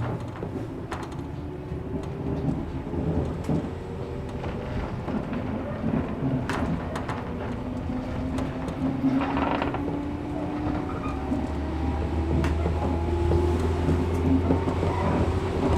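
Running sound inside a 113 series electric multiple unit: the traction motor whine rises slowly and steadily in pitch as the train gathers speed, over rolling noise with scattered sharp clicks. A short hiss comes about nine seconds in.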